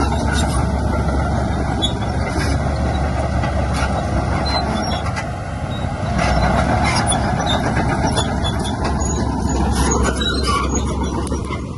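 Heavy diesel earthmoving machinery running, with the engine noise easing slightly just before halfway and rising again.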